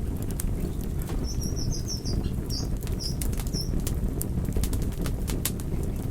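Wood fire burning with a low rumble and frequent sharp crackles and pops. From about a second in to nearly four seconds, a string of short high chirps sounds over it.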